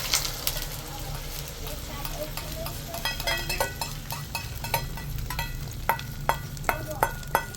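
Food sizzling in a frying pan while a metal utensil stirs it. From about three seconds in, the utensil knocks against the pan many times, each tap ringing briefly.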